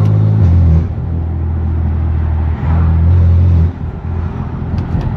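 BMW S55 twin-turbo straight-six with a straight-pipe exhaust, running with a loud low drone that swells in two surges, one at the start and one about three seconds in, then eases off near the end.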